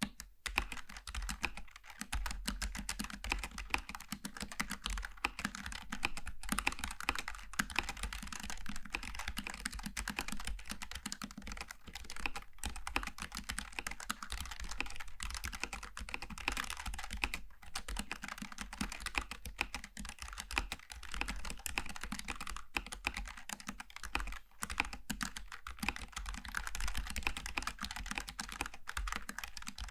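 Steady fast typing on a Logitech G915 TKL low-profile mechanical keyboard with GL Tactile switches: a dense run of key clicks with a few brief pauses.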